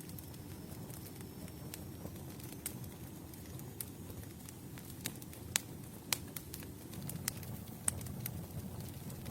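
Campfire burning with a low steady rumble and scattered sharp crackles and pops from the wood, a few louder snaps in the second half.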